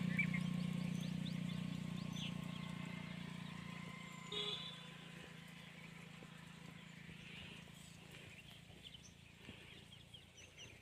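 Birds chirping in scrubby woodland, with one louder short call about four seconds in. A steady low hum fades away over the first few seconds.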